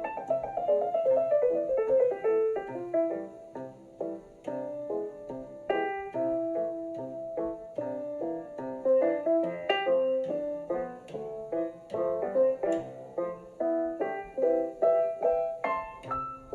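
Background piano music: quick runs and chords of separately struck notes.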